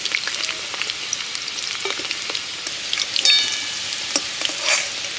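Cubes of young jackfruit sizzling in hot mustard oil in a metal wok while a ladle scoops the fried pieces out. Short clicks and scrapes of the ladle sound throughout, with a ringing metallic clink a little past three seconds in.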